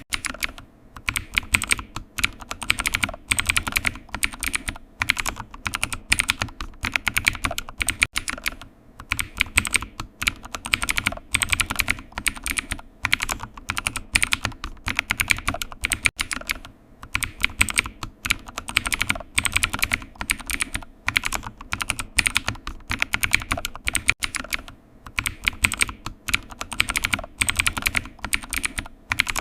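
Computer keyboard typing: a steady, irregular run of key clicks in quick bursts, with short pauses between them.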